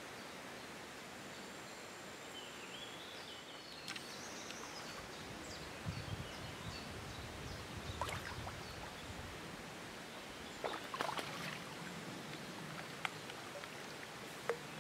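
Riverbank ambience: a steady even hiss of outdoor background noise, with a few faint high bird chirps in the first few seconds and several light clicks scattered through.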